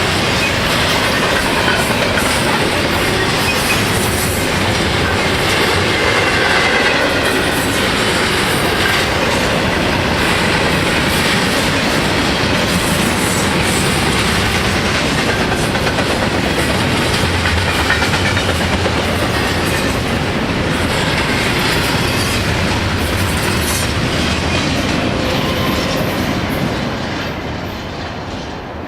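Norfolk Southern freight train rolling past close by: a steady clatter of railcar wheels over rail joints, with faint wheel squeal. It starts fading near the end.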